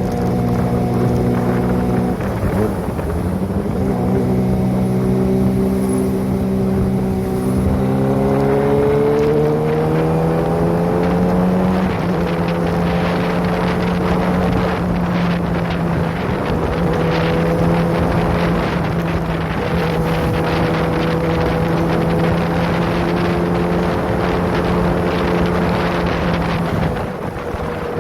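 Kawasaki Ninja ZX-25R's 249 cc inline-four engine with a Prospeed aftermarket exhaust, running while the bike is ridden. The revs climb gradually about eight seconds in and then hold steady, with wind noise on the microphone.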